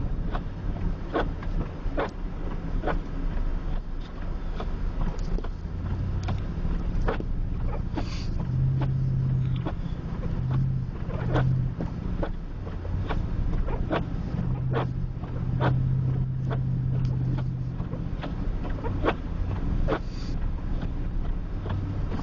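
Truck driving on an unploughed, snow-covered freeway, with a steady low rumble of engine and tyres. Frequent short sharp clicks and knocks come at uneven intervals, and a low hum rises and falls a few times in the middle.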